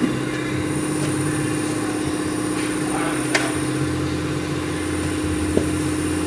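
A steady machine hum holding one pitch, with a couple of light clicks of hand tools on metal, one about three seconds in and one near the end.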